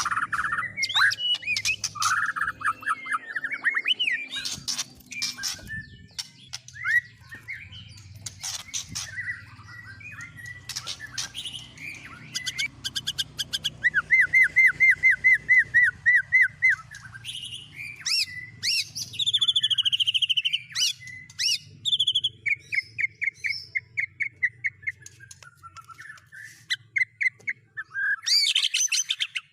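Songbird song made of quick chirps, clicks and whistled glides, with several fast trills of evenly repeated notes, the longest and loudest a little past the middle. It is the kind of mixed birdsong played as tutor song for training caged birds such as the white-rumped shama.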